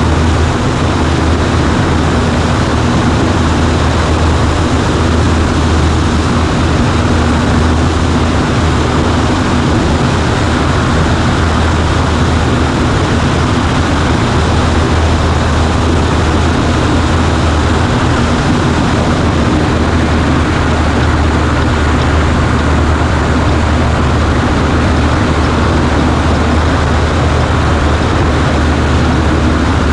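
Cessna 140A light plane's piston engine and propeller running steadily in flight: a constant loud drone with a strong low hum and no change in pitch.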